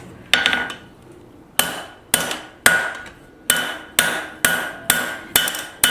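Blacksmith's hammer striking hot steel on an anvil, about ten blows, each with a short metallic ring. After the first blow there is a pause of over a second, then a steady run of about two blows a second.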